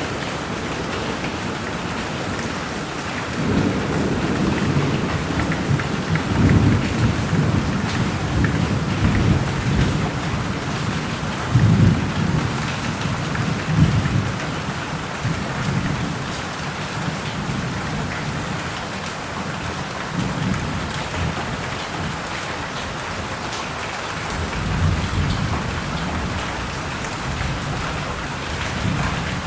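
Thunderstorm: steady heavy rain with long rolls of thunder rumbling through it, the loudest from about three seconds in to about sixteen seconds, with a softer roll near the end.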